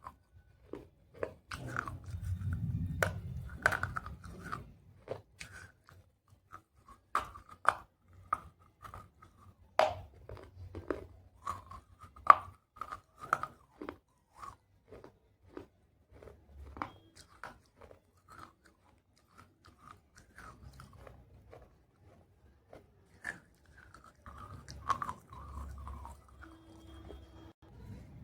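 Close-up biting and chewing of baked clay pot pieces: irregular sharp crunches, sometimes several in quick succession and sometimes spaced apart, over a low grinding chew in the mouth.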